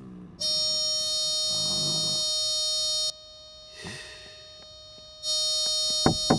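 Electronic buzzer sounding in two long, steady blasts, the first nearly three seconds, the second starting near the end and lasting just over a second. Soft, low breathy sounds come in the gap between them.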